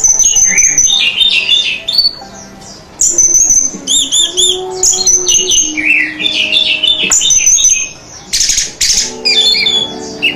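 Orange-headed thrush (anis merah) singing a loud, varied song of whistled phrases, including a quick run of repeated arched notes, with short pauses between phrases.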